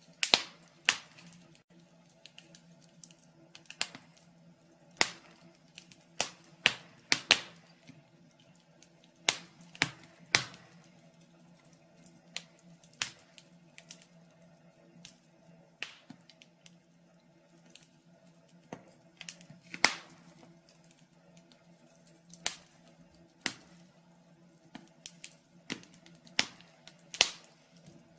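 Wood fire in a fireplace crackling: irregular sharp pops and snaps, some much louder than others, over a steady low hum.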